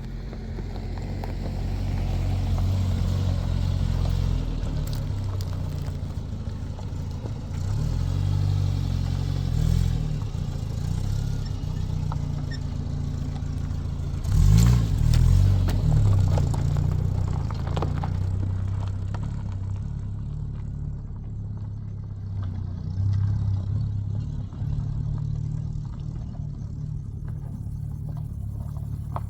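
A motor vehicle's engine running as it is driven, its hum rising and falling with changes of speed, loudest about halfway through, with some rattling and scraping.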